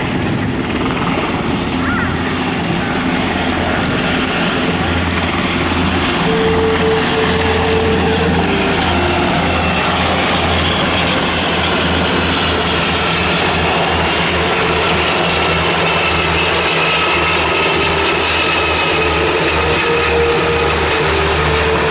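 UH-60 Black Hawk helicopters in flight: the rotors beat and the twin turboshaft engines whine steadily. The sound grows a little louder about six seconds in.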